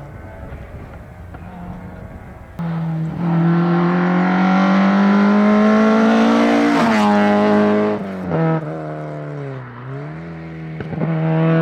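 Hillclimb race car at full throttle: the engine note jumps in suddenly and climbs steadily, drops sharply at a gear change about seven seconds in, then falls quieter and dips as the car lifts off. It builds loud again near the end.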